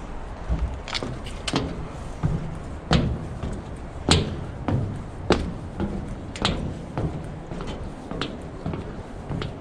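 A road bike being ridden, with irregular sharp knocks and low thuds about once or twice a second over a steady low rumble: the bike and its mounted camera rattling as it jolts along.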